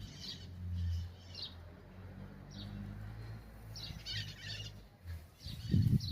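Small birds chirping in short, scattered calls over a steady low hum, with a louder low noise near the end.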